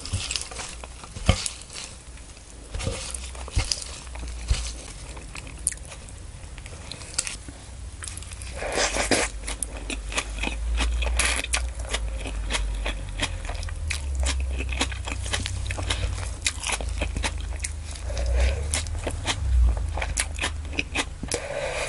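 Sparse clicks and rustles of gloved hands gathering fresh leafy greens off a wooden board, then, from about nine seconds in, close-miked chewing of a mouthful of the greens with steady crisp crunching and wet mouth sounds.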